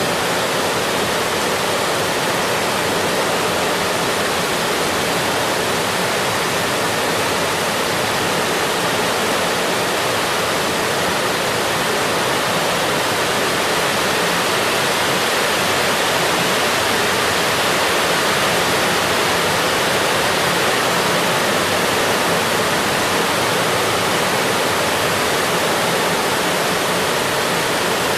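Steady, even rain noise with no separate drops, thunder or other events standing out.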